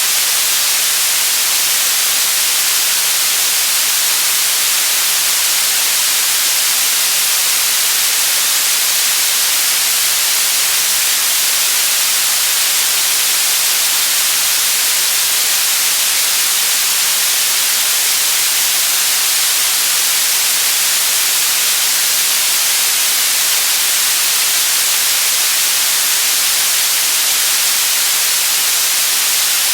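Steady white noise: an even, unbroken hiss, brightest in the treble.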